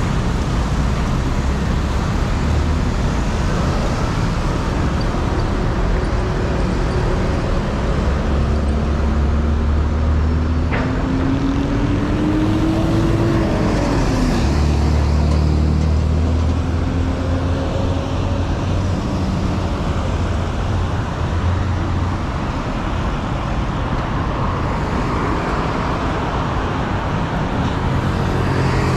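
City road traffic: the steady noise of engines and tyres, with one vehicle's engine rising in pitch as it accelerates, then dropping about halfway through. A single sharp click comes shortly before the drop.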